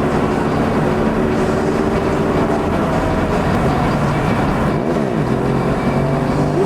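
Sport motorcycle engine running steadily, its pitch rising and falling once about five seconds in.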